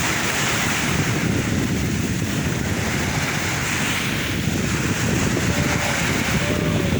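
Sea waves breaking, the surf hiss swelling and easing every second or two over a steady low rumble.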